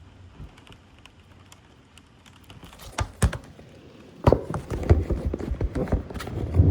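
Close thunder: two sharp cracks about three seconds in, then a run of crackling snaps from about four seconds in over a building low rumble.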